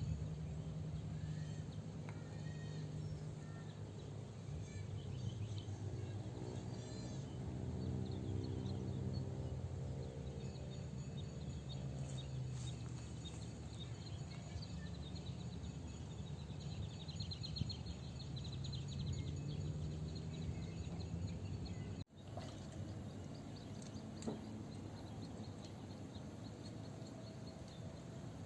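Outdoor swamp-side ambience: a steady low rumble with a distant animal call and a fast, high insect or bird trill. The sound drops out abruptly about three-quarters of the way through.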